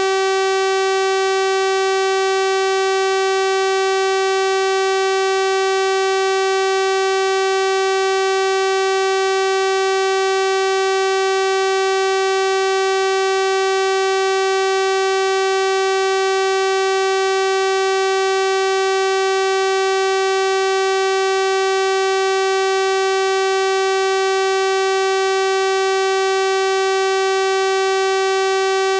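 Synthesized 384 Hz sawtooth-wave tone, held at one pitch without change, with a bright, buzzy stack of overtones.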